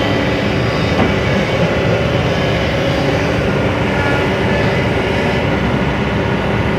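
Heavy engines running steadily at close range: a continuous low rumble with a steady drone above it.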